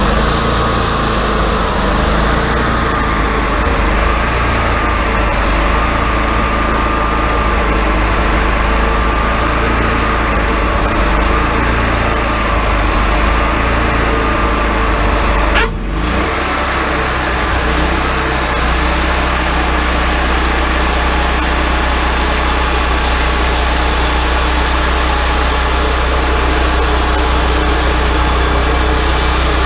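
Wood-Mizer LT40 sawmill running steadily, its engine driving the band saw through a log, with a wavering whine over the engine hum for the first half. The sound breaks off for an instant about sixteen seconds in, then the steady running carries on.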